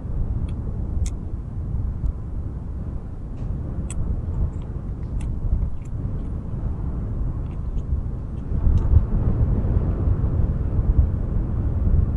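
Strong wind buffeting the microphone: a low, gusty rumble that swells about eight seconds in, with a few faint high ticks over the top.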